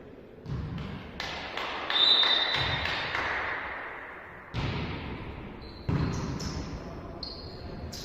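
Volleyball being struck during a rally in an echoing sports hall: several sharp hits, the loudest about two seconds in, each ringing on in the hall. Brief high-pitched tones come with the hits around two seconds in and again near the end.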